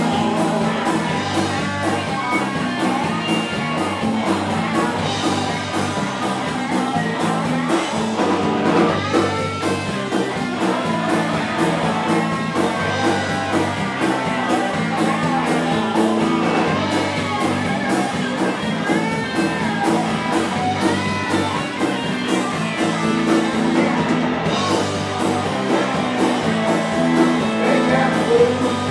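Live rock band playing an instrumental stretch of a blues-rock song, guitar to the fore over a steady drum beat.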